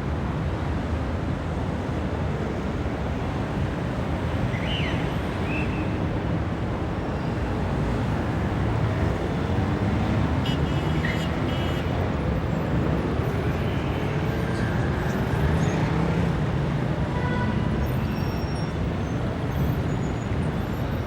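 Dense city traffic: a steady wash of engines and tyres, with several vehicles audibly accelerating through the middle, their engine pitch rising. A few brief high tones sound near the end.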